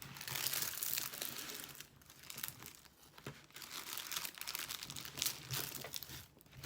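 Plastic packaging crinkling as it is handled. Heavy rustling for the first couple of seconds, then shorter irregular crinkles.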